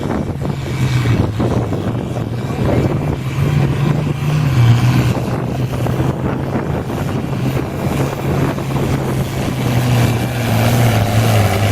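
International Harvester 966 tractor's engine running hard under load while pulling the weight sled, a loud steady drone whose pitch dips about four seconds in and sags lower near the end as the engine lugs down.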